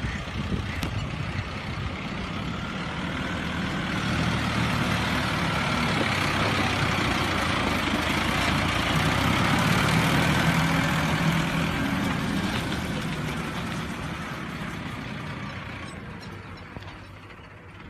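Tractor engine running as it comes closer, loudest around the middle, then fading away as it goes past.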